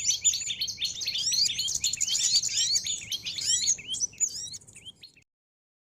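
Recorded bird-lure call: a dense chorus of many small songbirds chirping and twittering, fast overlapping high notes. It thins out about four seconds in and cuts off abruptly near the end.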